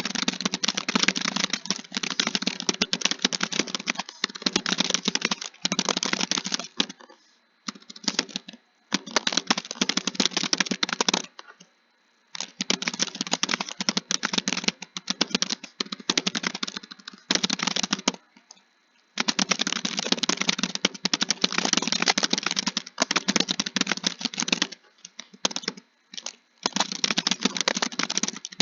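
Fast keyboard typing: dense runs of rapid keystrokes broken by short pauses of about a second.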